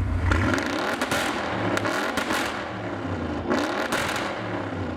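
Turbocharged 2.0-litre four-cylinder car engine accelerating hard, its pitch climbing and breaking off several times as it shifts up, with sharp exhaust cracks at the shifts.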